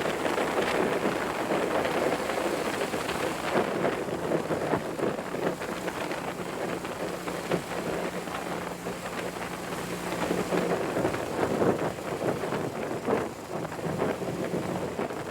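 Wind rushing and buffeting over the microphone on a moving motorcycle, with the engine's steady low note beneath it that drops away about eleven seconds in.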